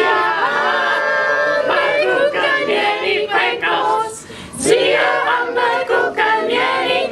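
A group of voices singing together without instruments, with a short break about four seconds in.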